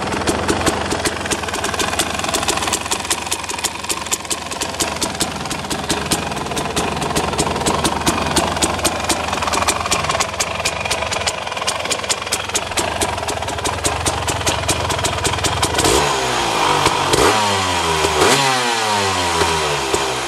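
Suzuki RMX250 single-cylinder two-stroke engine idling with a popping, uneven beat. Near the end it is revved up and down several times.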